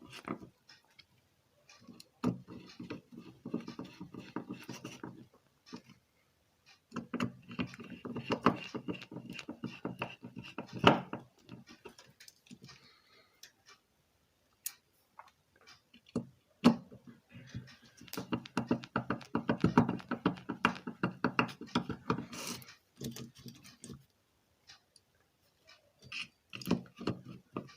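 Screws being driven to fasten the amplifier board's transistors and heatsink, heard as three bursts of mechanical whirring and clicking with short pauses between.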